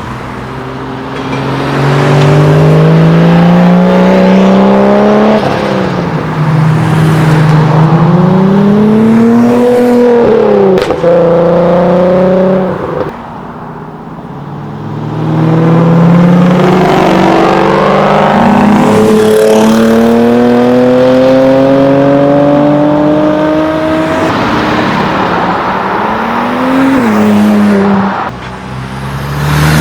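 Several modified cars accelerating hard away in turn. Their engines and exhausts rise in pitch through each gear and drop back at every shift, with a short lull about halfway through.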